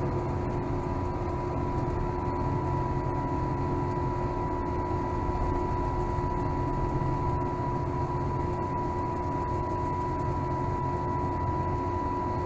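Steady cabin noise of an Airbus A350-1000 airliner in flight: a constant low roar of jet engines and airflow, with an unchanging hum and a higher steady whine.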